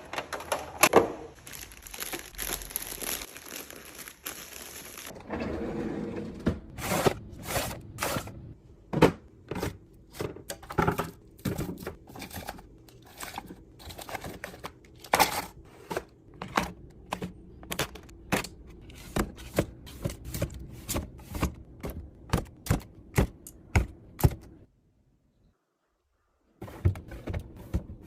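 Fridge restocking: crinkling and tearing packaging, then a quick run of clicks, taps and knocks from containers and lids being handled and set down. The sound cuts out for about two seconds near the end.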